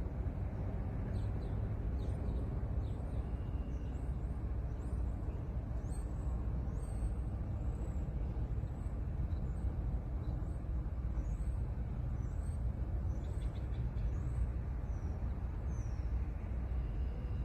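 Steady low vehicle rumble with faint, short high chirps scattered over it.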